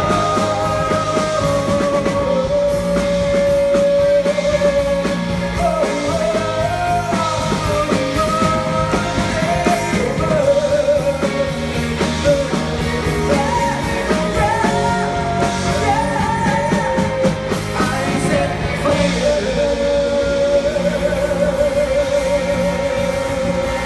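A singer's voice carrying a song melody with long held notes and vibrato over full band accompaniment with drums.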